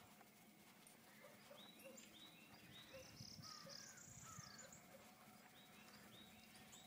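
Faint birdsong: a run of short, repeated chirps, with a brighter burst of several calls in the middle.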